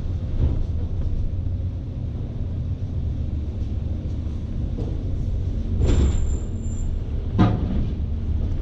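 Scania S520 truck's V8 engine and road noise heard from inside the cab, a steady low rumble under a heavy load of about 44 tons. A short clatter comes about six seconds in and a sharper knock near the end.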